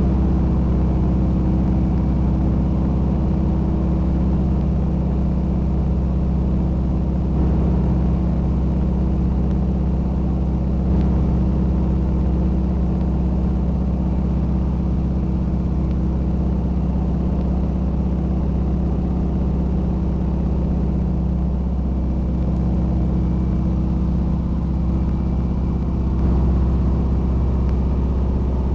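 Small plane's engine and propeller running steadily at a constant pitch, heard from inside the cabin.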